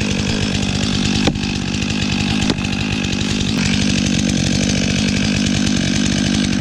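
Stihl MS 500i two-stroke chainsaw running steadily, with two sharp clicks in the first half and a slight change in its note a little past the middle.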